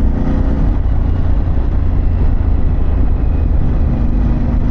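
Motorcycle engine of a 2024 Harley-Davidson Pan America running steadily while riding, a loud low rumble whose even note blurs about a second in and settles again near the end.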